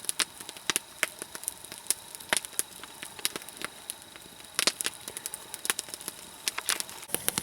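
Campfire of conifer logs crackling, with frequent irregular sharp pops and a denser run of louder pops a little past the middle.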